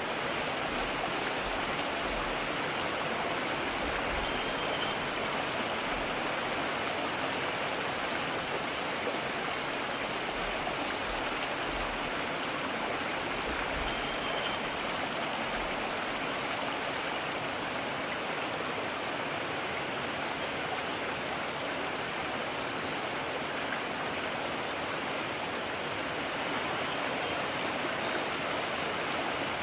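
Mountain stream: water rushing steadily, with no change in level.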